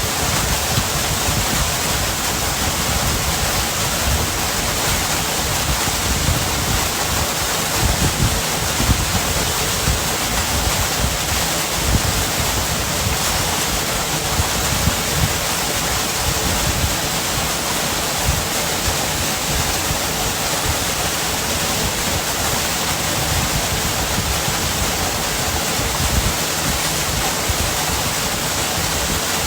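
Waterfall's water rushing steadily and loudly, close to the microphone.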